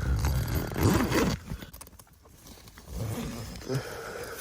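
A zipper dragged open in a couple of pulls, with fabric rustling and scraping, loudest in the first second and a half. Quieter rustling follows later.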